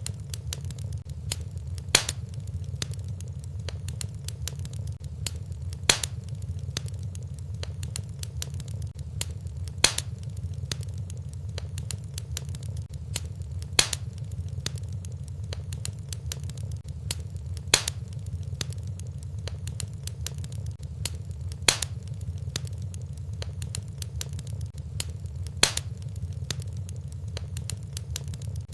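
Wood fire in a fireplace crackling over a steady low rumble, with small snaps throughout and a sharper pop about every four seconds.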